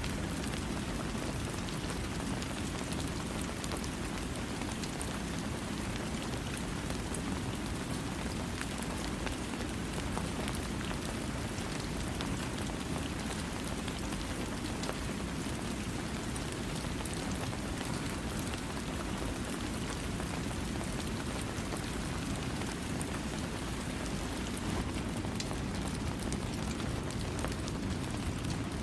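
Steady rain falling and pattering on a surface, an even rushing hiss with fine drop ticks and no thunder.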